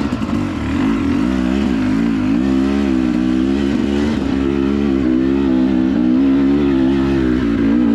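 Dirt bike engine running at moderate revs under a throttle that eases up and down, then holds fairly steady.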